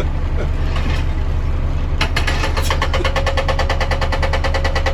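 A truck engine idles steadily. About two seconds in, a fast, even mechanical rattle with a steady whine starts on top of it.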